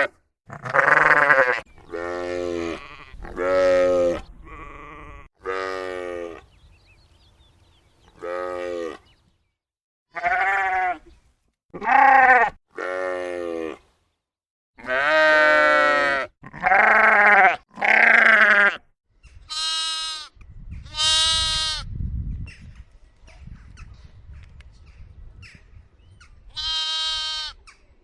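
Sheep and lambs bleating: a series of about fifteen separate calls, mostly deeper, drawn-out bleats, with a few higher-pitched bleats in the second half. Some low rough noise sits between the calls.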